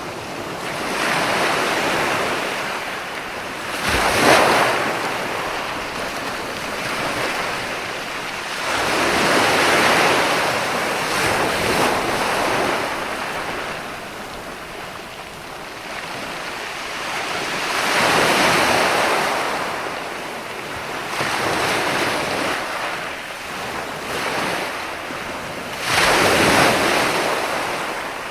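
Ocean waves breaking and washing up the shore, a rushing surf noise that swells and ebbs every few seconds, with two sharper, louder crashes, one about four seconds in and one near the end.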